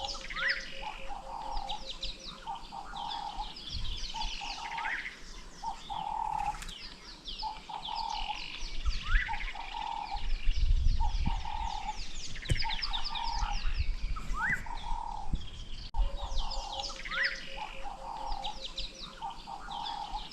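Bush birds calling: a busy chorus of short high chirps and rising whistles, over a low hooting call repeated about once a second.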